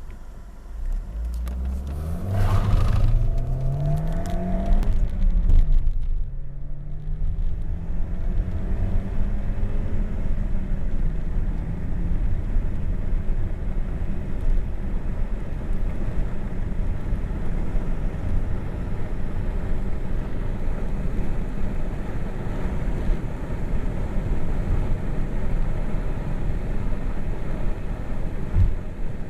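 Peugeot 406's 2.0 16v EW10J4 four-cylinder petrol engine under full-throttle acceleration from a standstill: the revs climb steeply for about five seconds, drop at a gear change about six seconds in, then climb more slowly again. From about ten seconds it becomes a steady rumble of engine, road and wind noise at speed.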